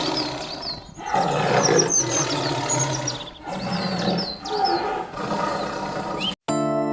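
A big cat roaring in several long, rough roars with short breaks between them, while birds chirp high in the background. Near the end it cuts off abruptly and a bell-like musical note begins.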